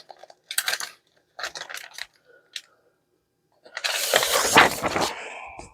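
Sheets of paper and cardstock rustling and scraping as they are gathered up in a few short bursts, then a louder, longer rustle about four seconds in.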